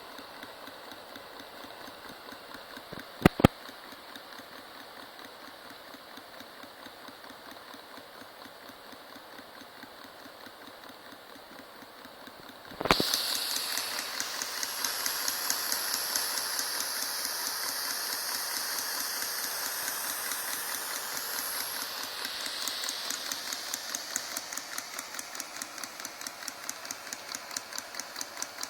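Small homemade Stirling engine running with a fast, even mechanical clatter. Two sharp clicks come a few seconds in, and about halfway through the sound suddenly gets louder and hissier while the same rhythm carries on.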